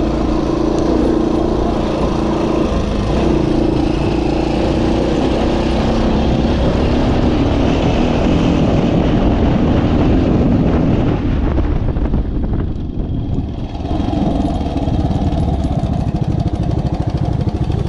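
Suzuki SP370 trail bike's 370 cc single-cylinder four-stroke engine running hard under throttle across rough grass. About twelve seconds in the throttle is shut and the engine drops back, then runs on steadily at low speed.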